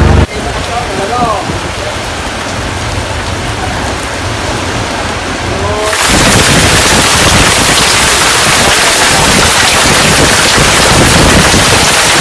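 Heavy rain and wind of a rainstorm, with a few faint voices calling in the first half. About halfway through the rain abruptly becomes much louder and harsher.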